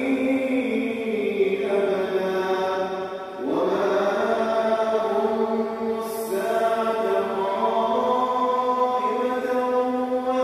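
Islamic vocal chanting: a single voice singing long held, wavering notes. About three and a half seconds in there is a short breath pause, and then the voice slides upward into the next phrase.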